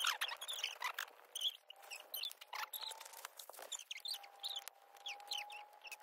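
Wild birds singing: many quick, sharp chirping notes, joined twice by a long, thin held note. Light clicks and rustles from handling things sound now and then.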